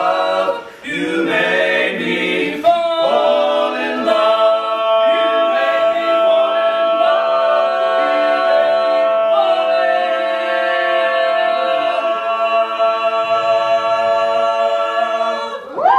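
Barbershop harmony singing a cappella: a few moving phrases, then from about four seconds in one long held closing chord in close harmony, released near the end.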